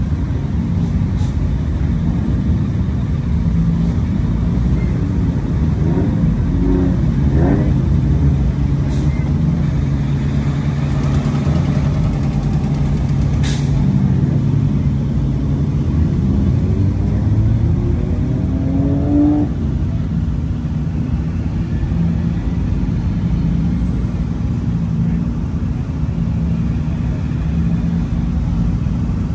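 Car engines running, with one revved up twice, its pitch rising about six seconds in and again around sixteen to nineteen seconds in, over a steady low engine hum.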